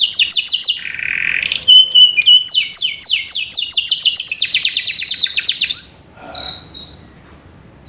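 Canary singing in fast trills of repeated, sharply falling high notes, with a short lower buzzy note about a second in. The song stops about six seconds in, leaving only a few faint notes.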